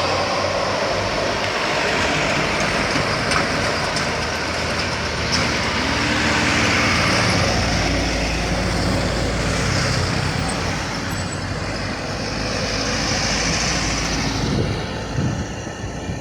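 A train and a heavy sugarcane truck going past close by at speed: a loud, steady rumble and roar, with an engine's pitch rising and falling near the middle.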